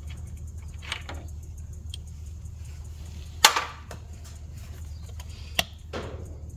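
A few sharp knocks and clinks, like tools or metal parts being handled, with the loudest about three and a half seconds in, over a steady low hum.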